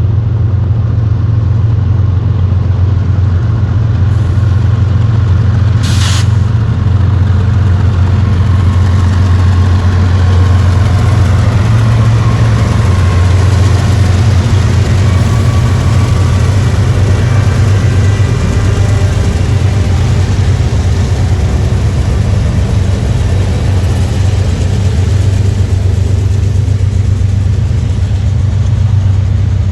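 Diesel freight locomotives running under load, a loud, steady low engine drone. A brief sharp sound cuts in about six seconds in.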